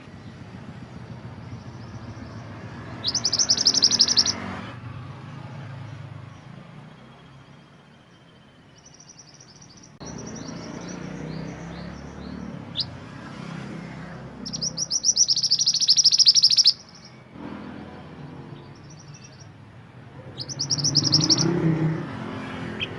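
A mantenan gunung songbird singing three loud bursts of fast, high trilled chirps, the longest about two seconds, with fainter chirping in between over a low background rumble.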